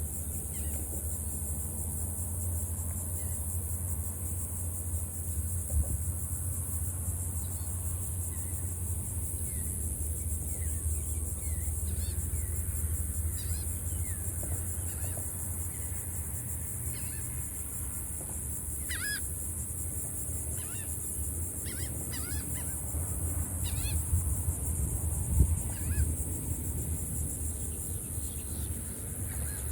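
Scattered short bird calls, several close together in the second half, over a steady low rumble and a constant high hiss.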